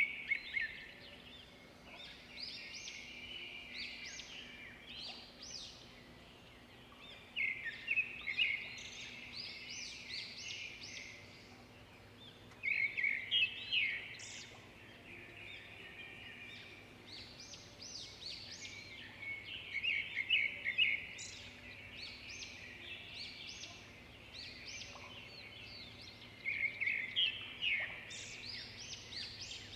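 A songbird singing, repeating a burst of quick chirping notes every six or seven seconds, with softer chirps in between.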